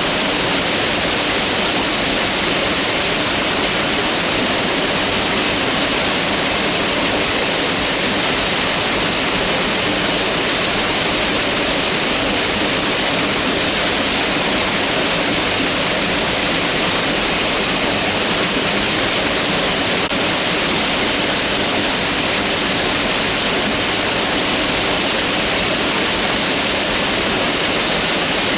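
Mountain river rushing over rocks, a steady loud full rush of water.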